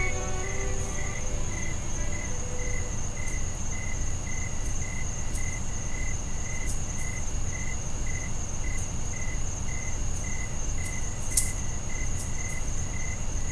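Crickets chirping steadily at about three chirps a second, over a continuous high insect trill and a low background rumble. There is a single faint click about eleven seconds in.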